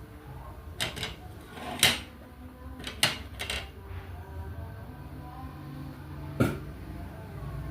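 Diamond painting work: a handful of sharp, short plastic clicks and taps from the drill pen and resin drills, in loose irregular clusters over a low steady hum.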